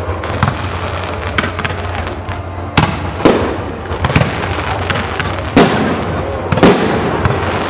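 Aerial fireworks bursting in a rapid string of sharp bangs, about eight in under eight seconds, the loudest trailing off in long echoing tails, over a continuous background din.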